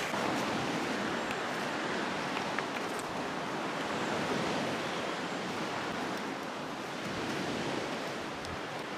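Steady outdoor rushing noise, with a few faint ticks now and then.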